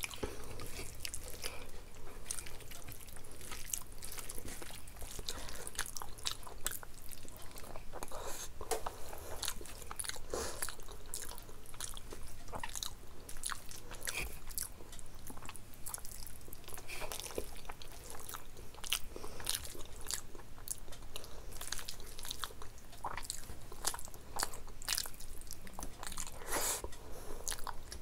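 Close-miked chewing and biting: a steady run of wet mouth clicks and crisp crunches as food is eaten.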